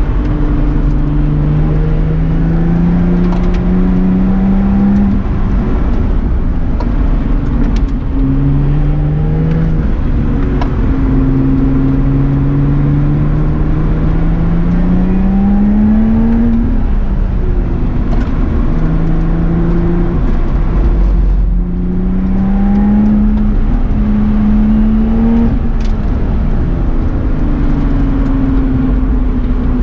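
Lotus Exige S Club Racer's supercharged 3.5-litre V6, heard from inside the cabin while lapping a track. The engine note climbs in pitch under acceleration and drops at each gearchange, over and over. About two-thirds of the way through there is a brief lift, and near the end the pitch falls away under braking and downshifts.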